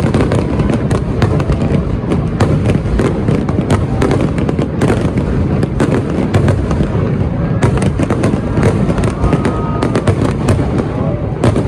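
Large fireworks display: a dense, continuous barrage of bangs and crackles with no break.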